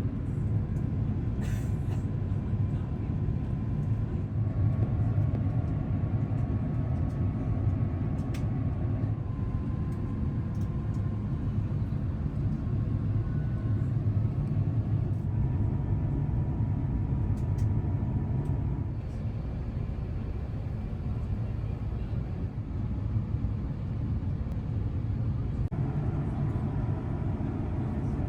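Steady low rumble of an Airbus A350-1000 heard from inside the cabin on approach and landing, with faint engine tones that shift in pitch now and then. A small click about a second and a half in, and the noise grows fuller a couple of seconds before the end.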